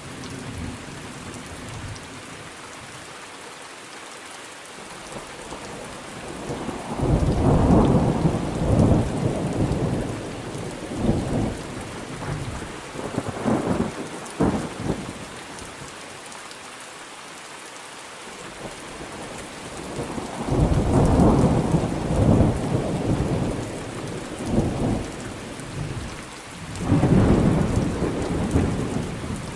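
Thunderstorm: steady rain falling throughout, with three long rolls of thunder, the first starting about a quarter of the way in and crackling on for several seconds, the second about two-thirds in, and the third near the end.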